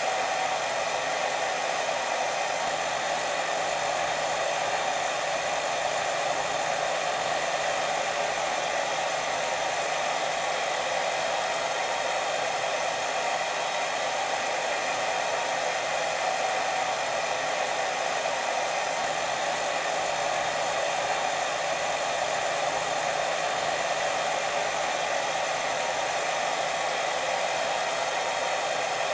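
Steady white noise for sleep, an even hiss strongest in the middle range, with no breaks or changes.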